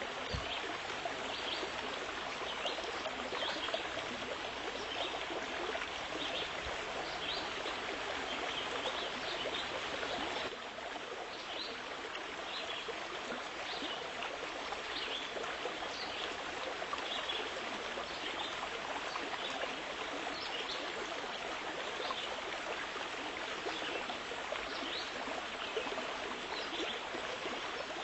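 Steady rushing water like a stream, with faint short high chirps over it; the sound dips slightly about ten seconds in.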